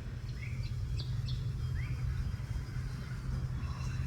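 A bird calling: a few short, rising chirps in the first two seconds, over a steady low hum.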